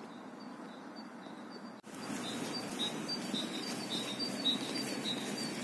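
A small bird chirping in a quick series of short high notes over steady outdoor background noise, starting about two seconds in after a brief break in the sound.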